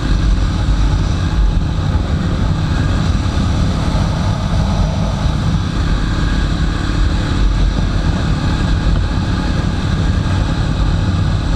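Jawa motorcycle riding along at steady speed: engine running under a loud, steady rush of wind noise on the microphone.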